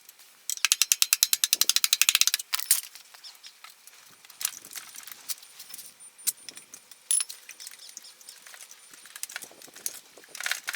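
Ratchet wrench clicking rapidly for about two seconds, then scattered clinks of tools and small metal parts being handled.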